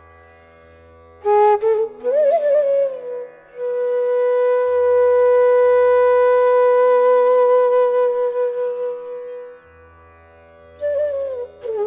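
Indian classical-style flute music over a steady drone: short melodic phrases, then one long held note that wavers toward its end, a pause, and a new phrase near the end.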